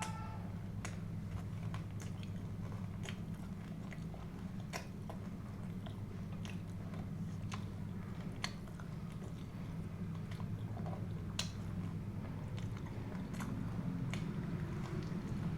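Close-miked chewing and biting of food, with irregular small wet clicks and crunches. A steady low hum runs underneath.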